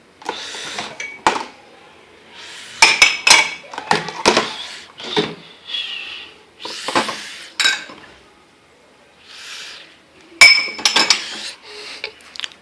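Dishes and cutlery being handled: irregular sharp clinks and knocks of crockery and metal, with short scraping or sliding sounds between them and a brief lull about two-thirds of the way through.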